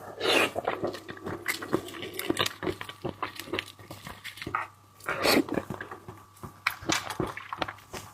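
Close-up eating sounds of a person on seafood: many small wet clicks and smacks, with two louder slurps, one just after the start and one about five seconds in.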